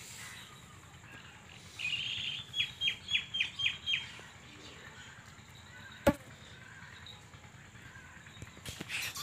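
A bird calling a quick run of about six short, sharp chirps, followed about two seconds later by a single sharp click.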